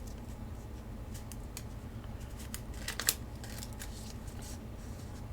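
A sheet of origami paper being twisted and folded by hand: scattered crisp crinkles and rustles, the sharpest about three seconds in, over a low steady hum.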